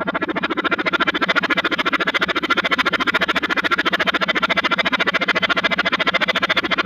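A voice run through a heavy 'car wash' effect and played backwards: garbled, unintelligible speech with a fast, even pulsing flutter.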